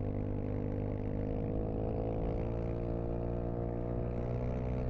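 Dirt bike engine running under way at a fairly steady speed, its pitch edging up slightly over the first few seconds and then holding.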